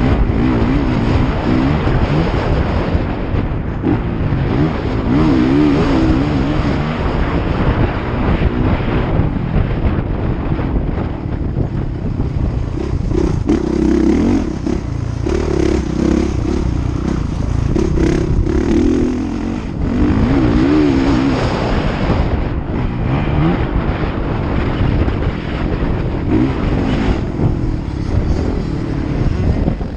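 Motocross motorcycle engines revving up and down continuously, their pitch repeatedly climbing and dropping as the bikes accelerate and back off around the dirt track.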